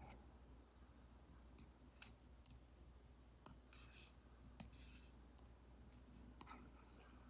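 Stylus tip tapping and making short strokes on a tablet screen fitted with a paper-like screen protector. There are faint scattered clicks, about one or two a second, and two short scratchy strokes a little past the middle.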